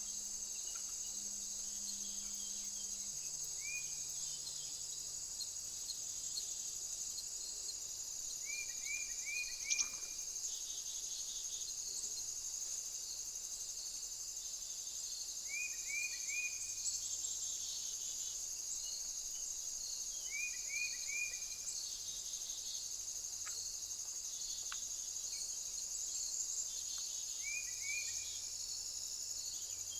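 Steady, high insect chorus, with short groups of three or four quick chirps every few seconds and a single sharp click about ten seconds in.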